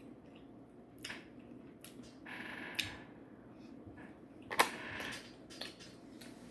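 Close-up eating sounds: chewing with scattered small clicks and taps, the sharpest a single click about four and a half seconds in.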